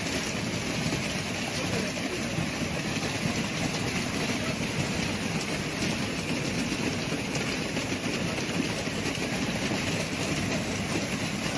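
Large hailstones falling hard and pelting cars and roofs: a dense, unbroken clatter of countless impacts that holds steady throughout.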